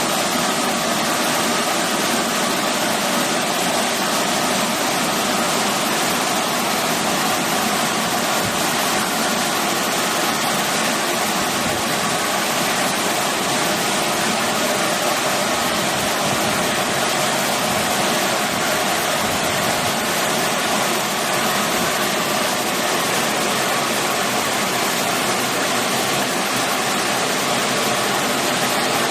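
Electric blow dryer running steadily on its strong setting: a constant rush of air with a faint steady whine.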